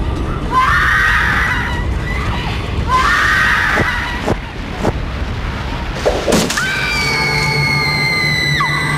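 A young woman screaming in terror: two shrill screams about two seconds apart over a low rumbling drone. About seven seconds in, a long high wail slowly falls in pitch.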